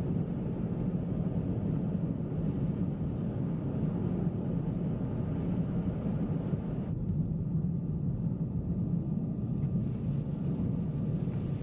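Car driving on a snowy road: a steady low rumble of engine and tyre noise. The lighter hiss above it drops away a little past halfway.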